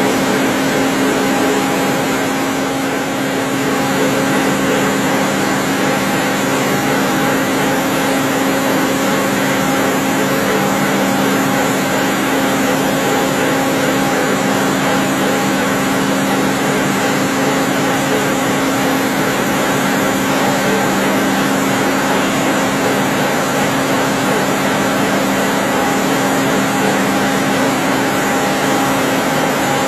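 CNC lathe running steadily, a constant machine noise with a steady low hum under it.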